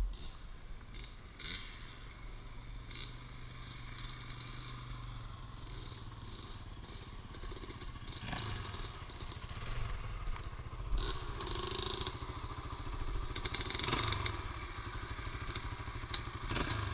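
Dirt bike engine running steadily at low speed, with several clattering knocks and scrapes in the second half.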